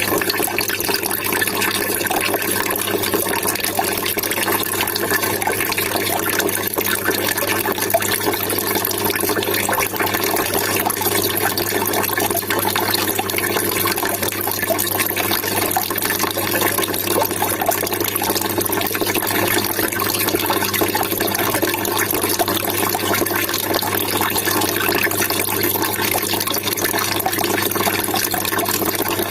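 Water trickling and splashing steadily, a continuous babbling-water sound with a steady low hum underneath.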